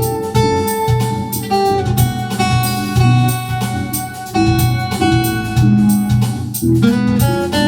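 Instrumental passage of a soul song: guitar and other instruments holding notes over a steady drum beat, with no singing.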